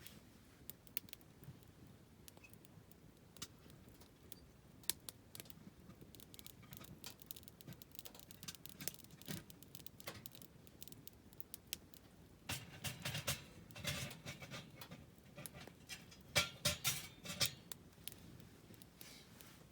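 Wood campfire crackling and popping: scattered sharp snaps at first, then a thicker run of louder crackles and pops in the second half.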